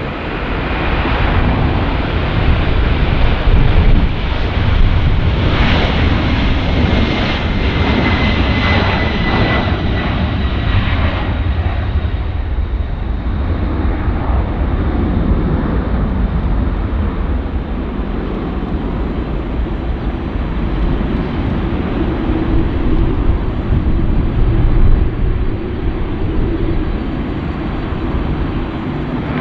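Jet airliner engines running close by: a loud rumble throughout, with a high whine that falls slightly in pitch over the first ten seconds as the plane passes.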